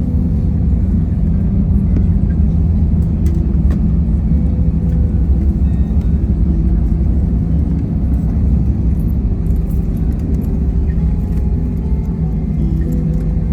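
Airliner cabin noise: a steady low rumble with a few steady humming tones underneath.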